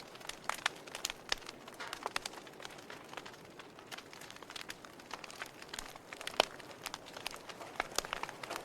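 Campfire crackling: irregular sharp pops and snaps of burning wood over a soft hiss, with one louder pop about six seconds in.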